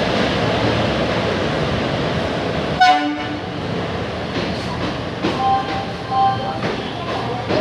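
Train running along the platform with a steady rumble and a short horn blast about three seconds in, followed by a few brief tones.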